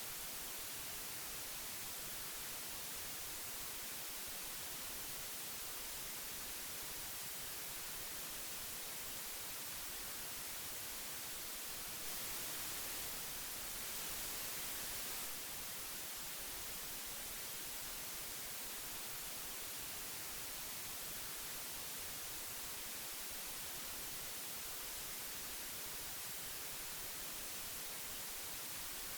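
Steady hiss of old magnetic tape, an even high-pitched noise with no tones or clicks, a little louder for a few seconds in the middle.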